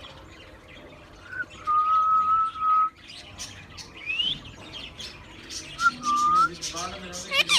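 Ring-necked parakeet whistling: a steady held whistle lasting about a second, a quick rising whistle, then a shorter whistle, among short chirps.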